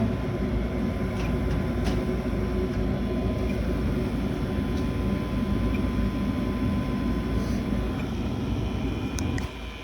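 High-efficiency gas furnace running: a steady low rumble of air and motor noise with a faint steady tone over it, dropping noticeably quieter about nine and a half seconds in.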